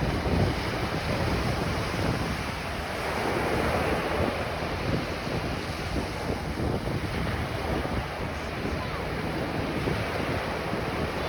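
Ocean surf washing onto a beach, a steady rush of breaking waves with wind buffeting the microphone.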